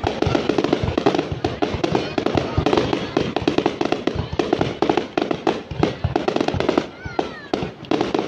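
Aerial fireworks display: a rapid, continuous barrage of bangs and crackling bursts, easing off briefly about seven seconds in, where a few short rising whistles are heard.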